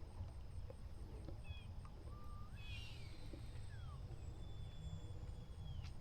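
Faint outdoor ambience: a low wind rumble, with a few short bird chirps around the middle.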